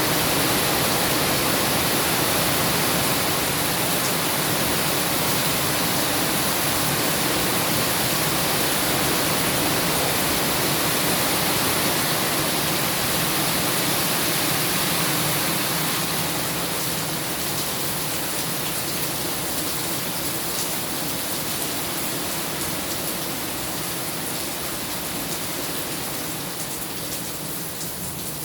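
Heavy rain pouring down as a dense, steady hiss that eases slightly in the second half, with a few sharp drips near the end.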